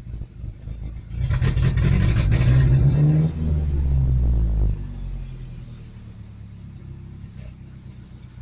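Truck engine being cranked and briefly catching with a loud rumble for a few seconds before dying back down. The owner puts the stalling down to running out of gas.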